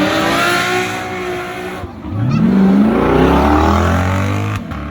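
A car's engine accelerating hard. Its pitch climbs, drops briefly about halfway through as at a gear change, climbs again and holds.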